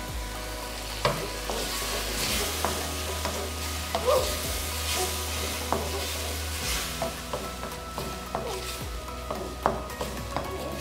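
Diced boneless chicken sizzling in hot oil in a wok as a spoonful of vinegar cooks off. A wooden spatula stirs it, with scattered clicks and scrapes against the pan.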